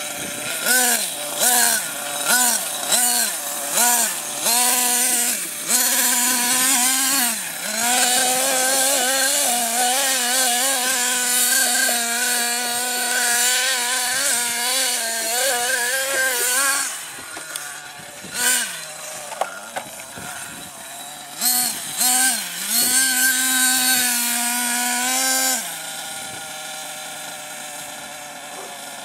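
Small nitro engine of an RC monster truck revving in quick throttle blips, then held at high revs for several seconds with the pitch wavering. It blips again and drops to a quieter, steady low running near the end.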